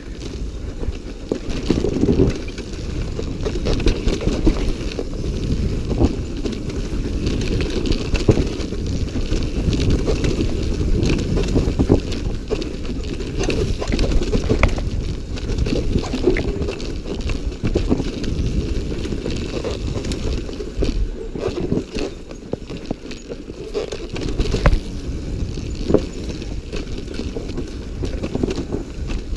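Dirt bike being ridden off-road. Engine noise is mixed with wind buffeting on the camera microphone, and there are frequent knocks and rattles over rough ground.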